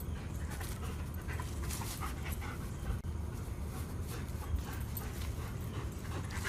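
A dog panting, fairly faint and steady, over a low background rumble.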